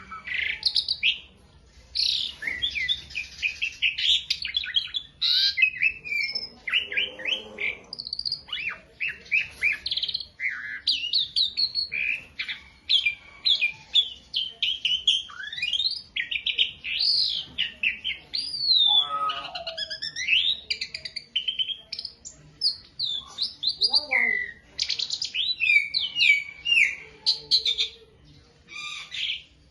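Pied starling (jalak suren) singing a long, varied song of chattering chirps and whistled notes that glide up and down. The song runs almost without a break, with short pauses about 2 seconds in and near the end.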